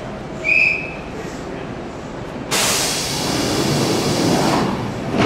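Electric commuter train at a station platform: a short high tone about half a second in, then a sudden loud hissing rush of noise that starts about two and a half seconds in and lasts about three seconds.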